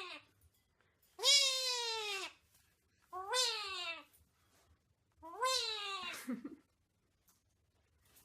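Three drawn-out meows, each about a second long, rising then falling in pitch, with short pauses between them.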